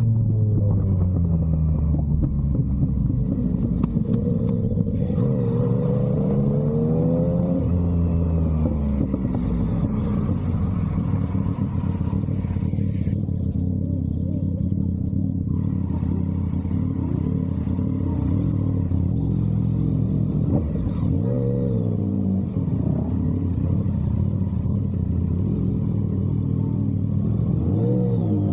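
Yamaha MT-09's inline-three engine through an aftermarket SC Project exhaust, heard while riding. The engine note rises and falls several times as the bike accelerates and changes gear.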